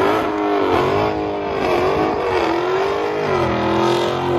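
Car engine revved hard during a burnout-style slide on pavement: the revs climb steeply, then rise and fall again and again as the throttle is worked, held high near the end.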